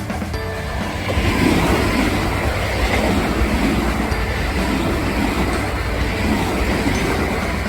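Kintetsu Nara Line electric train passing on the rails, its running noise building about a second in and holding steady before easing near the end.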